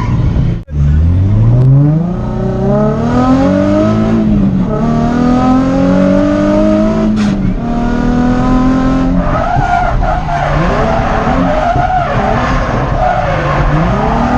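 Drift car's engine accelerating hard, its pitch climbing and falling back twice as it shifts up, then tyres squealing in a slide, the squeal wavering over the engine from a little past halfway.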